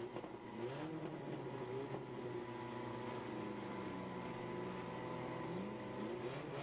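Demolition derby cars' engines revving, their pitch rising and falling several times. A thin steady high tone runs underneath.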